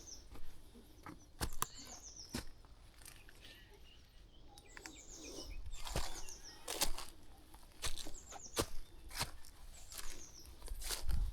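Footsteps crunching along a country path, about one a second. Over them a small songbird keeps repeating a short, quick phrase of high notes that falls in pitch.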